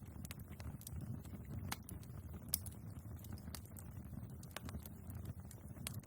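Wood fire burning in a fireplace: a steady low rush of the flames with irregular sharp crackles and pops of the logs, one louder pop about two and a half seconds in.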